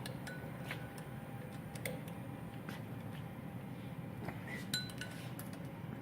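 Irregular light metallic clinks and taps of a wrench on the crankshaft pulley bolts as they are tightened in a cross pattern, a few with a brief ring.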